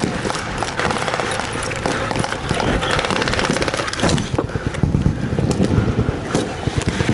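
Rapid bursts of blank machine-gun fire mixed with scattered rifle shots, the steady crackle of a staged battle, over a steady hum.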